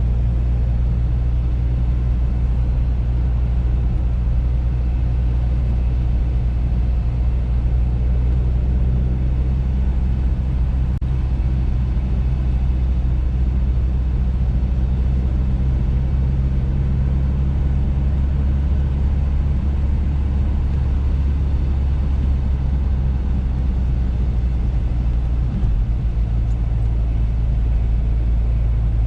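Audi A3 driving at a steady speed: a constant low drone of engine and road noise.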